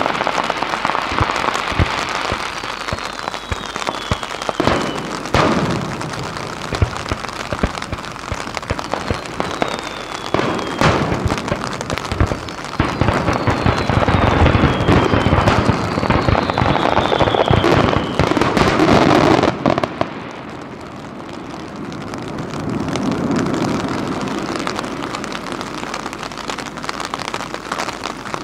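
Fireworks finale: a dense barrage of shell bursts and crackling, with several whistles falling in pitch. About two-thirds of the way through the barrage cuts off, leaving a low rumble that swells once and fades.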